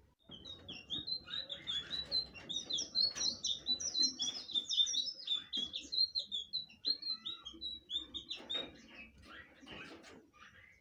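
Blue flycatcher (sikatan biru) singing a long, fast run of short high chirping notes. The run is busiest in the middle and thins out to a few scattered notes after about seven seconds.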